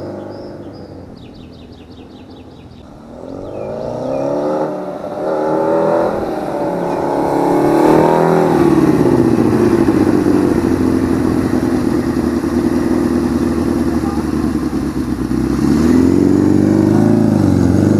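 Suzuki GS750 cafe racer's four-cylinder engine running, revved up and down a few times, then holding a steady pitch for several seconds before rising and falling again near the end.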